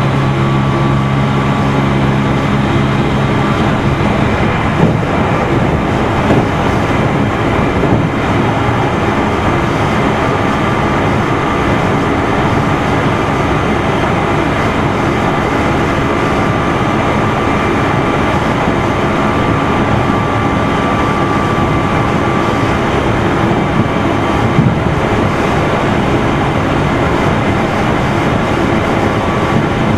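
Onboard running sound of a Meitetsu 3100 series electric train in motor car Mo 3212: a steady rumble of wheels and motors at speed. A low hum fades out about three seconds in, and a few light knocks come through.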